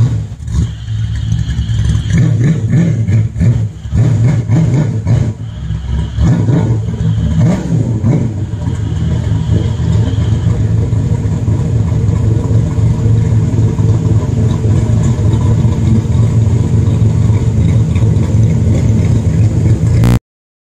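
C3 Chevrolet Corvette's V8 running as the car creeps into a garage, uneven with throttle changes over the first several seconds, then settling into a steady idle. The sound cuts off suddenly near the end.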